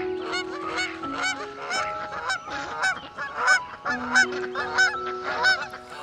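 A flock of whistling ducks calling: a rapid run of short, squeaky whistled notes, several a second, from more than one bird. Soft background music with held notes plays underneath.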